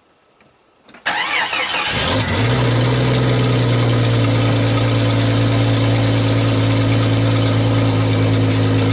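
Jeep Cherokee engine starting about a second in, with a brief wavering whine as it catches, then idling steadily and loud. The exhaust pipe has broken in half, so the exhaust is leaking at the break.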